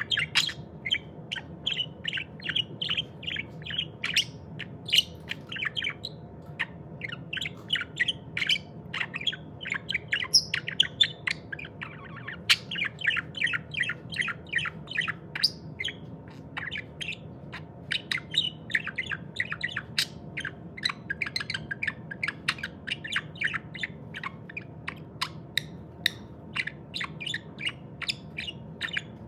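Pet budgerigar chattering: a steady stream of short, quick chirps, with a faint steady low hum underneath.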